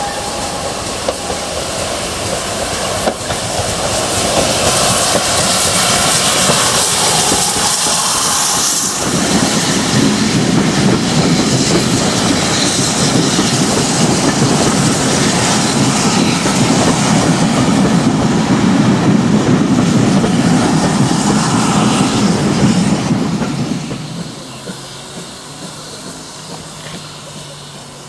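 A train running past on the line, its wheels clattering over the rail joints with some squeal and hiss. It builds over the first few seconds, stays loud for about fifteen seconds, then dies away a few seconds before the end.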